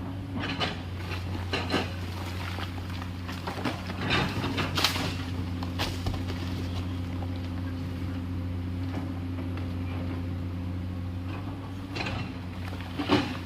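Komatsu PC210LC excavator's six-cylinder diesel engine running steadily under work, with several sudden knocks and rattles from the working machine, the loudest about five seconds in and near the end.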